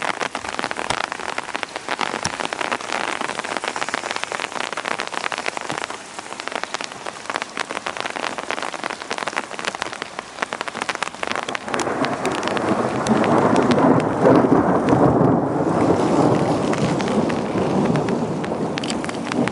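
Heavy rain falling, its drops striking a nearby surface as many sharp ticks. About twelve seconds in, a long roll of thunder builds, loudest a couple of seconds later, and keeps rumbling to the end.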